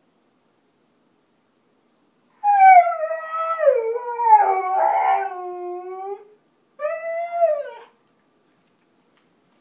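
Husky howling: a long howl that slides down in pitch, then after a short pause a second, shorter howl that rises and falls.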